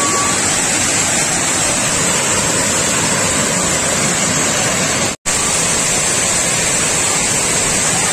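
Loud, steady rush of water pouring over an overflowing dam, broken by a momentary dropout about five seconds in.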